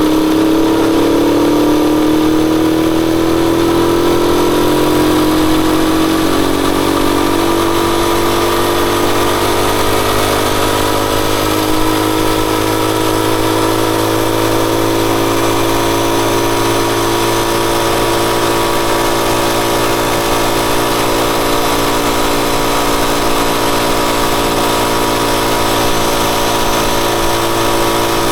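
Rusi Chariot 175 motorcycle engine running, its pitch rising slowly over the first several seconds and then holding steady.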